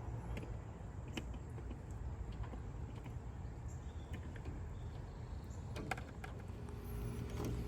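Scattered light clicks and taps, the handling of taillight and fitting parts during the install, over a steady low rumble.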